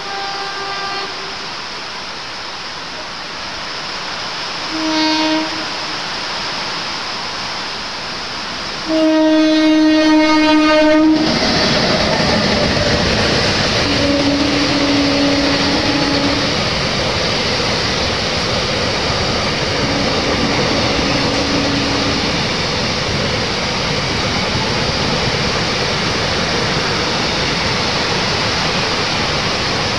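Locomotive horn blasts as a container freight train approaches: a short one at the start, another about five seconds in, and a long loud blast about nine seconds in. Then the train passes at speed with a steady, loud rush of wheels and wagons, and two more drawn-out low tones, over the hiss of rain.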